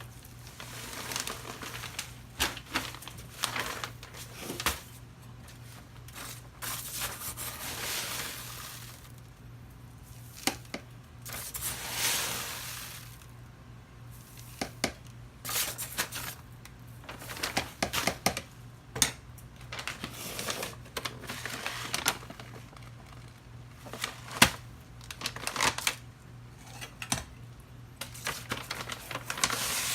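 Handling noise: irregular rustling and crinkling with many sharp clicks and taps, a few louder knocks among them, over a steady low hum.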